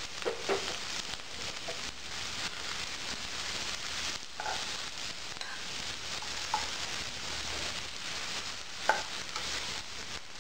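Chopped green capsicum sizzling in hot oil in a frying pan as it is stirred and tossed with a spatula, with a few sharp taps of the spatula on the pan, the loudest near the end.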